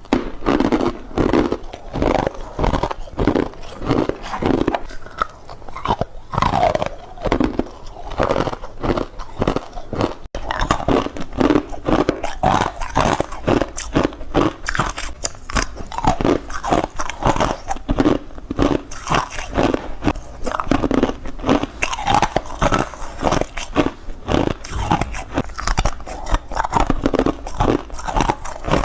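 Close-up crunching of ice being bitten and chewed: rapid, continuous crunches several times a second, with a momentary break about ten seconds in.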